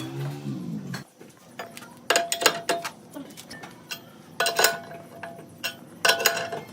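Music ends about a second in, followed by a series of sharp metallic clinks and knocks that come in small clusters, some with a short ring.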